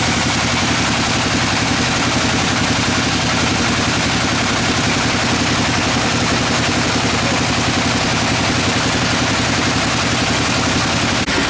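Sawmill saw running steadily and loud, a low machine hum under a dense hiss, as it works through a dry teak log. A brief click and dip in level just before the end.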